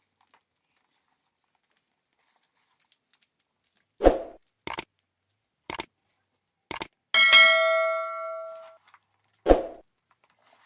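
A few knocks and clinks of kitchenware being handled, then one strike that rings out metallically for about a second and a half, and a final knock.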